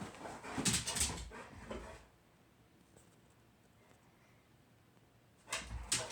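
Dog sounds: scratchy, rustling bursts with clicks through the first two seconds, quiet for a few seconds, then more near the end.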